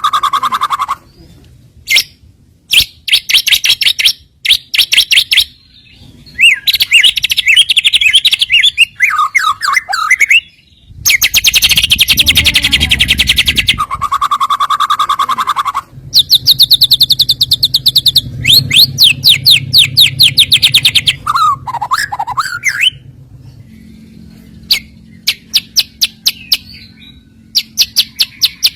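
White-rumped shama (murai batu) singing loudly, phrase after phrase of rapid repeated chattering notes and trills, with some lower sliding whistles, broken by short pauses.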